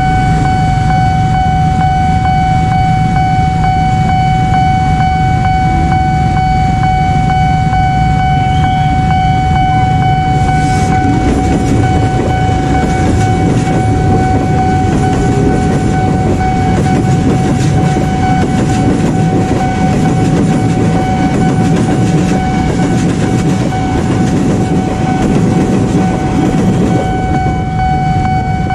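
Electric commuter train passing over a level crossing, its wheels clattering over the rails; the train noise builds about eleven seconds in and dies away near the end. Under it the crossing's warning signal sounds a steady high tone throughout.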